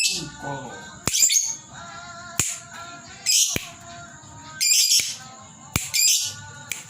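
Lovebird giving short, high, sharp chirp calls about six times, roughly one a second, as a trigger call to excite other lovebirds.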